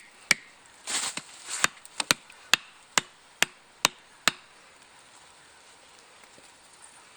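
Sharp hammer blows, about two a second, driving a stake for a roasting frame down into the soil; the blows stop a little over halfway through.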